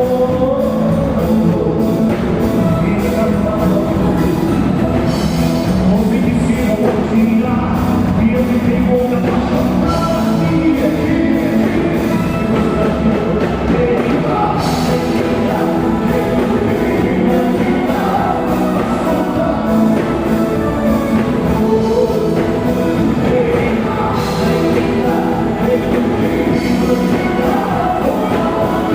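Live band music with singing and a steady drum beat, loud throughout.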